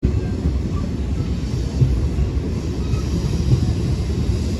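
Moving passenger train running, a steady low rumble heard from aboard the train.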